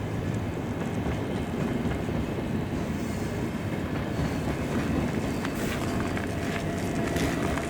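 Train running on the rails: a steady rumble of wheels on track, with a faint thin whine setting in near the end.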